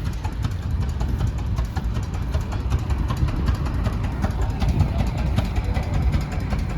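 An engine running with a steady low rumble and irregular ticks and clatter over it.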